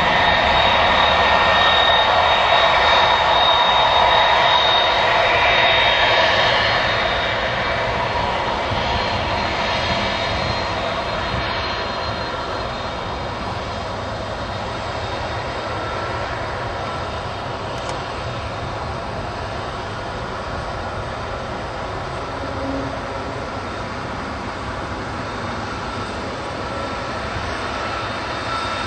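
Airbus A300-600 airliner's twin jet engines running, loud with a thin steady high whine over the engine noise, fading over a couple of seconds after about six seconds to a lower, steady level.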